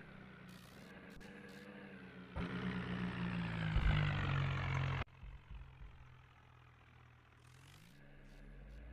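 Tractor engine running, revved hard for a few seconds from about two seconds in. The sound then drops off suddenly and the engine runs quieter, building up again near the end.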